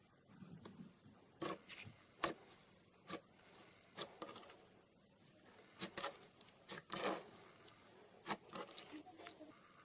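Slime being squeezed and pressed by hand, giving a string of short pops and crackles at uneven intervals, some in quick pairs.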